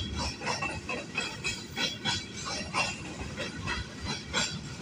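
Coal freight train's hopper wagons rolling past, their wheels clacking over the rail joints over a low rumble, with brief high-pitched squeaks.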